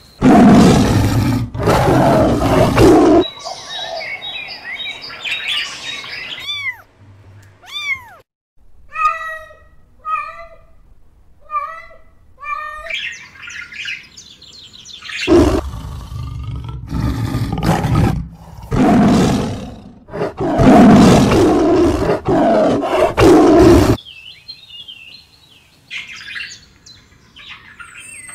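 A run of animal calls. Loud, coarse calls fill the first three seconds and come back in a long stretch from about 15 to 24 seconds. Between them come bird chirps, a few falling whistles and about five short repeated notes roughly a second apart, and more chirps near the end.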